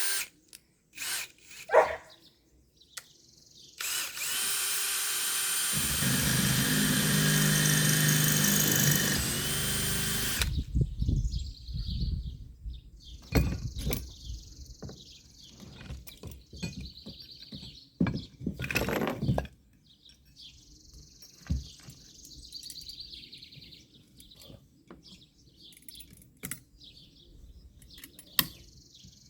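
Power drill with a 1/4-inch bit running steadily for about six seconds, starting about four seconds in, drilling through a metal conduit bracket into a wood block. Its pitch dips briefly near the end of the run. Scattered clicks and knocks of handling metal parts follow.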